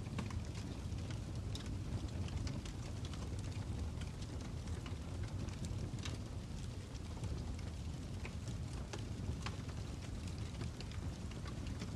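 Fire crackling: a steady low rumble with scattered, irregular pops and crackles.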